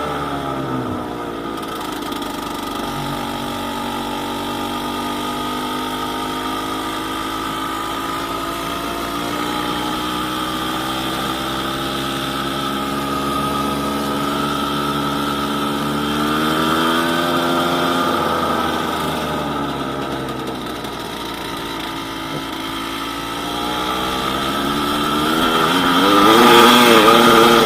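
Yamaha DT200WR's two-stroke single-cylinder engine running while being ridden: the revs drop at the start, rise and fall again through the middle, then climb with a few quick blips near the end, where it is loudest.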